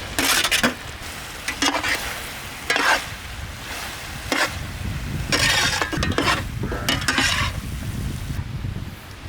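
Fried chicken pieces being stirred into a sauce in a hot pan: a ladle scrapes the pan in repeated, irregular strokes while the sauce sizzles.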